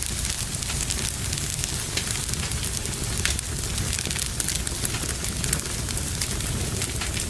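Fire burning in a fireplace, crackling with frequent irregular sharp pops over a steady low rush of flame.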